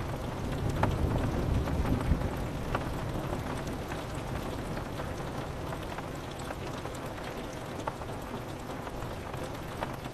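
Steady rain on a window with scattered single drop ticks. A low thunder rumble dies away over the first couple of seconds.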